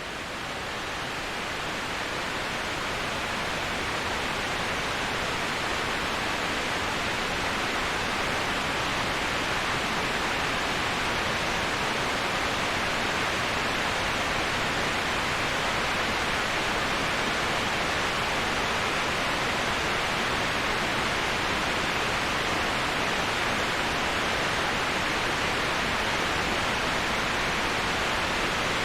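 Steady rushing waterfall sound, an even hiss with no breaks, swelling up over the first few seconds and then holding steady.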